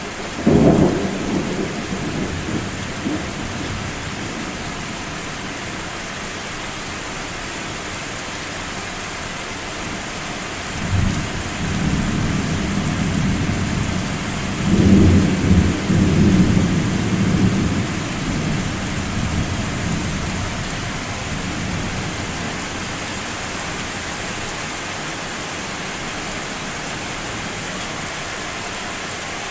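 Thunder over steady rain: a sudden clap right at the start that rumbles off over a few seconds, then a second, longer peal that rolls in about a third of the way through, grows to its loudest with several deep booms, and slowly dies away.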